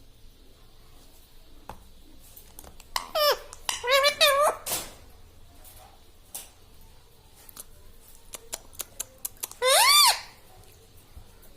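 Indian ringneck parrot giving short, high, gliding calls: a falling one about three seconds in, a wavering one just after, and a rising-then-falling one near the end. Between the calls comes a quick run of sharp, light clicks and taps, like beak or claws on a metal cage or dish.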